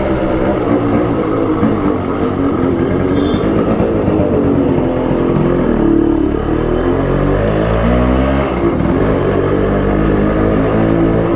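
Yamaha RX-135 single-cylinder two-stroke engine running loud while ridden, its pitch falling and rising several times as the throttle is eased off and opened again.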